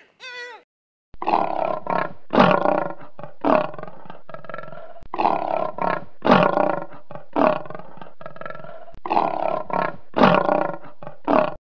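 A red deer's short falling call at the very start, then a male lion roaring in a long series of more than a dozen deep roars and grunts.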